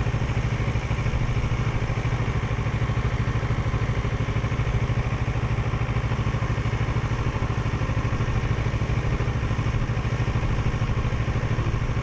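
Parallel-twin motorcycle engine running steadily at an even, unchanging pitch.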